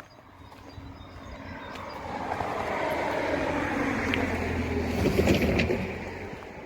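Diesel train passing through the station: its engine and wheel noise build steadily for about five seconds to a peak, then fade as it goes by.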